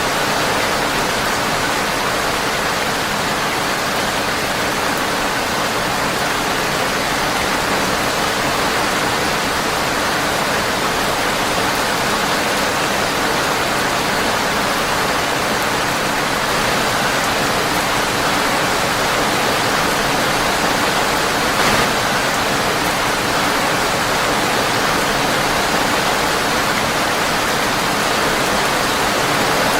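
Steady heavy rain on a windowpane, a dense even hiss. A single short crack about two-thirds of the way through.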